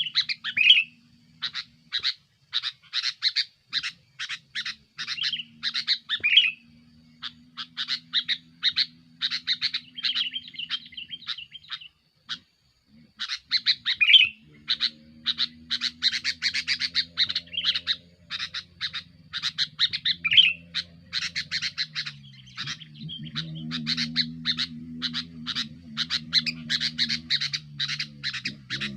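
Male sooty-headed bulbul chattering in a rapid, noisy run of chirps, the busy aggressive song used to challenge a rival, pausing briefly twice. A steady low hum sits underneath.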